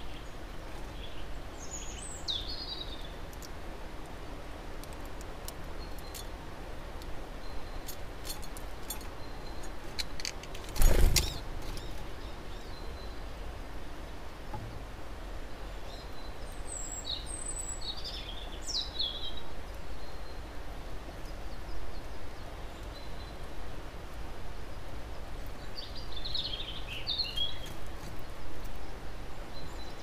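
Steady low background noise with short, high bird chirps in three brief clusters. One loud thump comes about a third of the way in.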